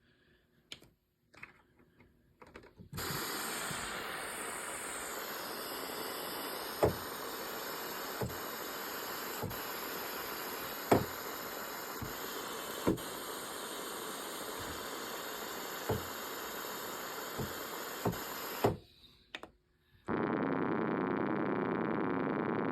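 Yamaha DX7 FM synthesizer playing voices from a VRC-105 cartridge. After a few faint clicks, a hissing, noise-like patch sounds steadily for about sixteen seconds, with sharp knocks at irregular moments, and then stops abruptly. Near the end a pitched, sustained patch begins.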